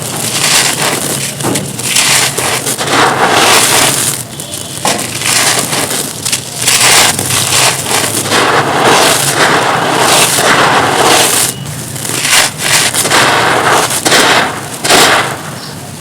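Close crunching and crackling of a dry, dusty, brittle material being crushed and crumbled by hand, in a string of uneven overlapping bursts.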